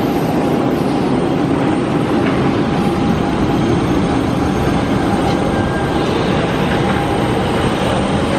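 Steady loud rumble and rush of a passenger jet's cabin with the engines running, with a faint steady hum.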